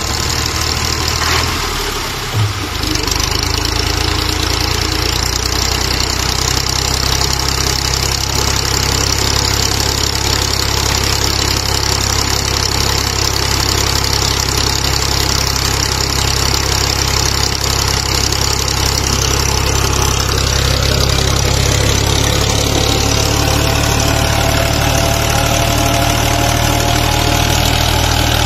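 Tractor diesel engine running steadily, driving a tubewell pump through its rear tyre. A brief dip with a single knock comes about two seconds in.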